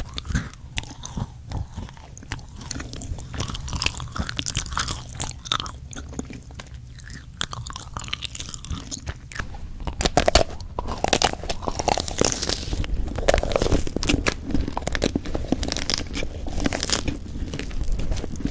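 Close-miked eating: crisp crunching bites and chewing in quick, irregular clicks, louder and busier about halfway through.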